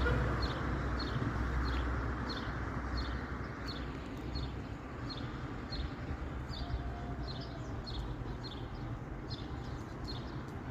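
A small bird calling over and over, short high notes about twice a second, over a steady low rumble of wind or distant traffic.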